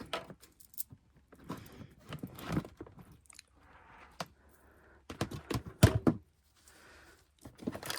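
Handling noise from gear being moved and set down: a run of irregular knocks, clicks and rustling, with the loudest sharp knock near the six-second mark.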